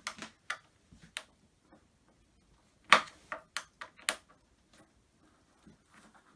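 Sharp clicks and knocks from handling flat-pack cupboard parts and fittings, the loudest about three seconds in.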